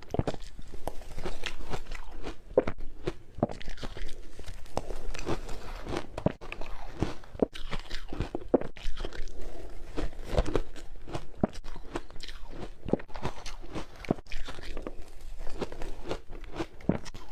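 Ice being bitten and chewed close to the microphone: dense, irregular crunching that goes on without a break.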